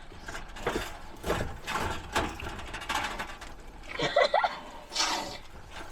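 A show pig nosing and stepping in its feed bucket: irregular knocks and rattles of the bucket as it feeds.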